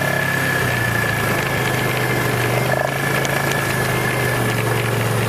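A vehicle engine idling steadily, with a thin steady high whine above the low engine note.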